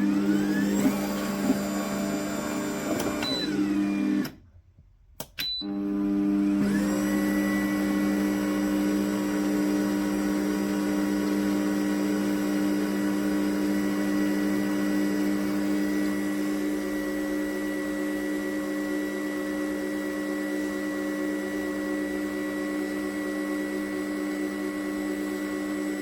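Electric motor of a cold press slow juicer running with a steady hum, its pitch wavering for the first few seconds. It stops for about a second after four seconds, then starts up again and runs steadily.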